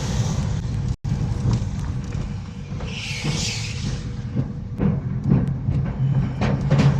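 Steady low rumble of a moving vehicle, heard as engine and road noise, with a short hissing burst about three seconds in.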